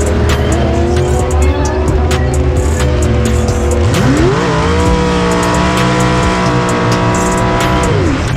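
Drag race car engine revving up and held at high revs, twice: a short hold at the start, then a longer one about four seconds in that drops away near the end, with tyre squeal.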